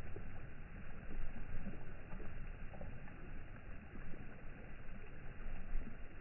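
Sea water rushing and splashing in an uneven, continuous wash, heaviest in the low end.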